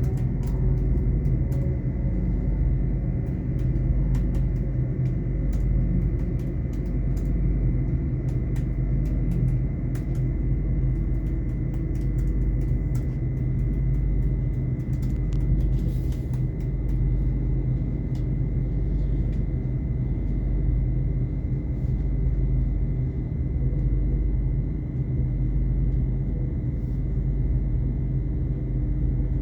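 Great Western Railway Class 800 IET train running, heard from a passenger seat: a steady low rumble of wheels and running gear with a constant high whine and scattered light clicks.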